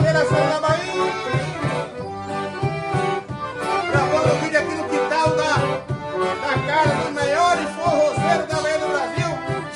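Forró pé de serra played on accordion, its melody leading over a steady, evenly paced drum beat.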